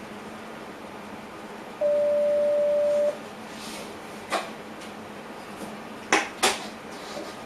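A single loud, steady electronic beep lasting a little over a second in a train driver's cab, over the cab's steady running hum. It is followed by three sharp clicks, two of them close together near the end.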